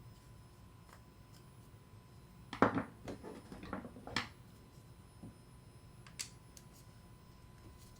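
Small metal parts of a star drag fishing reel clinking and clattering as the reel is taken apart by hand: a quick cluster of clicks about two and a half seconds in, the first the loudest, and one more click about six seconds in.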